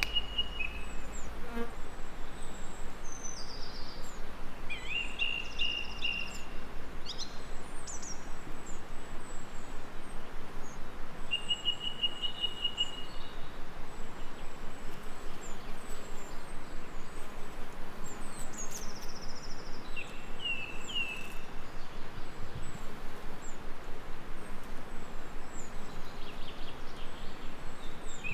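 Bees buzzing steadily, with songbirds giving short trilled calls and high chirps on and off.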